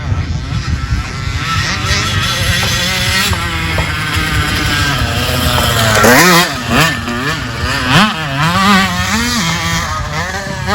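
Dirt bike engine running, then revved up and down several times in quick succession over the second half.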